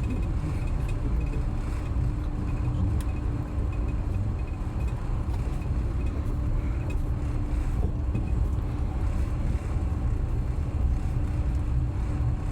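Long-distance passenger train running along the line: steady low running noise of the wheels and carriage, with a steady hum.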